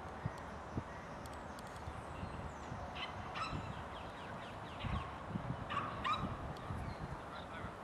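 Open-air ambience with a steady low rumble, and bird calls a few times: a short group about three seconds in and another about six seconds in.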